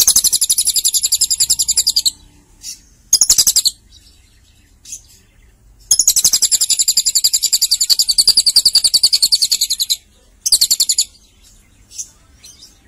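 Lovebird singing long, rapid chattering trills of quickly repeated high notes, in four runs: about two seconds at the start, a short burst, a long run of about four seconds, then another short burst.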